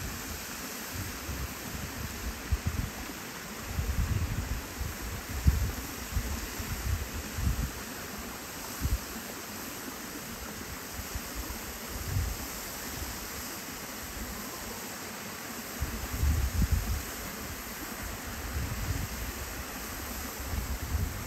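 Steady rush of flowing river water, with irregular low rumbles of wind on the microphone.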